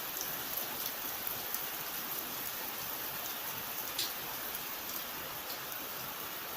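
Steady rain falling, an even hiss with scattered sharper drop ticks, one louder drop about four seconds in.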